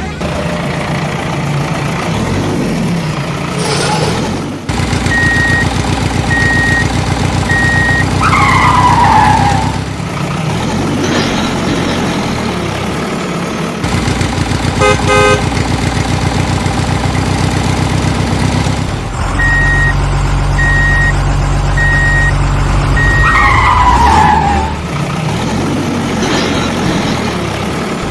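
Cartoon vehicle sound effects: machine engines running with horn honks, a run of short even beeps followed by a falling whistle, the sequence coming round again about two thirds of the way through.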